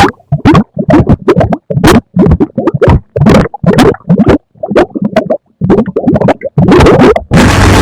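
Harsh noise music: loud, stuttering bursts of distorted sound chopped up by abrupt silences, about two a second. A continuous wall of noise comes back near the end.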